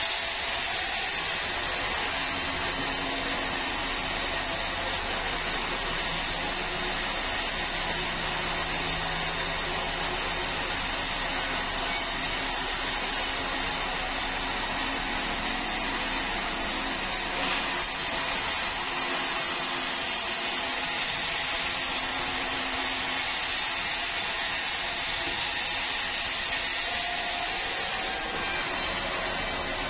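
Sawmill saw running steadily with an even, unchanging machine noise.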